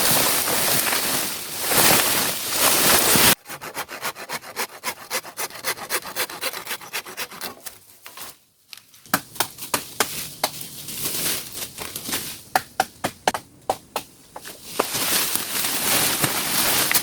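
Heavy rain falling, cut off suddenly about three seconds in. It gives way to a quick run of rubbing and scraping strokes on wood, several a second, with a short break in the middle. The rain returns near the end.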